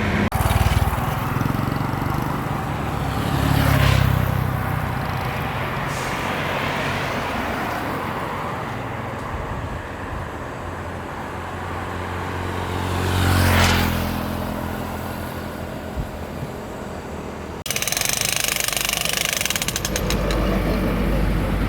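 Motor vehicles passing close by twice over steady road noise. Near the end the sound cuts abruptly to a harsher, denser machine noise, typical of a construction site.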